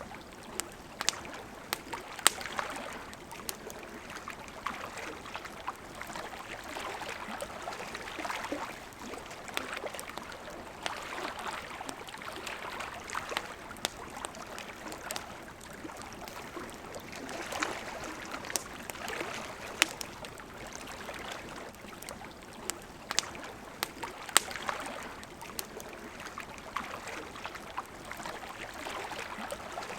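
Campfire crackling with frequent sharp pops, over the steady rush and gurgle of a flowing river.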